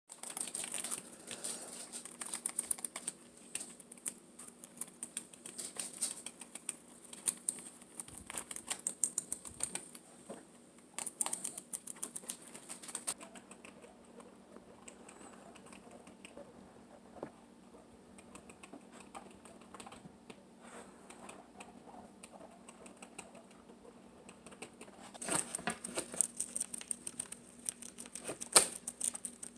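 Guinea pigs chewing and tearing banana leaves: fast, crisp clicking munches. The munching thins out for a stretch in the middle and picks up again near the end, over a faint steady hum.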